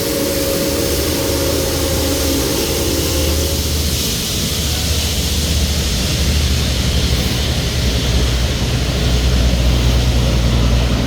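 A train whistle's chord of several tones dies away over the first few seconds. The train's steady low rumble and hiss carry on.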